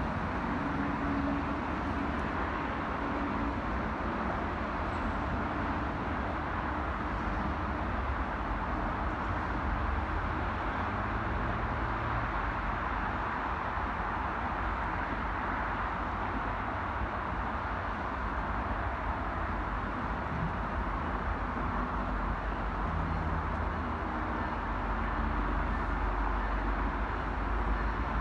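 GO Transit commuter train running with a steady low rumble and no horn or bell, swelling slightly near the end.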